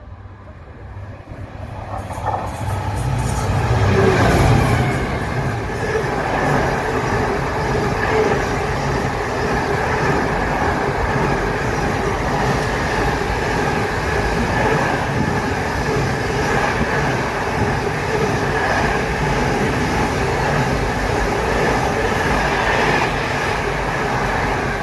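Freight train of container wagons passing close by: the locomotive's approach builds to its loudest about four seconds in, then the wagons' wheels on the rails keep up a steady loud rumble.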